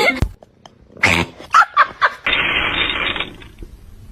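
A pet animal's short growling calls, then a steady hiss-like noise lasting about a second.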